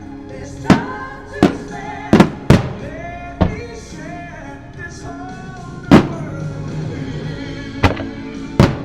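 Aerial fireworks shells bursting in sharp booms, about eight at uneven intervals, the loudest about two seconds and six seconds in. They burst over the show's music, a ballad with singing.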